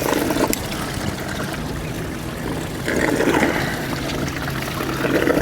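Water splashing and trickling beside a small fishing boat, over a steady low engine hum, swelling about three seconds in.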